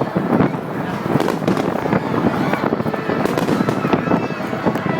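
Fireworks going off in a rapid, continuous barrage, with many bursts and crackles overlapping.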